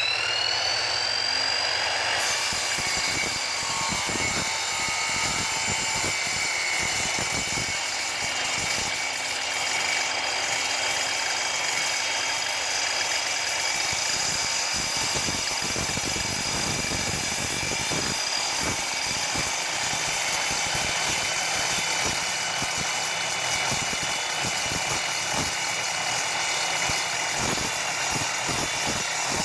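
Tacklife sliding compound miter saw with a metal-cutting blade, just up to full speed and cutting slowly through quarter-inch mild-steel angle iron: a steady high whine with an uneven scraping grind from the blade in the steel. The saw cuts the steel cold and clean.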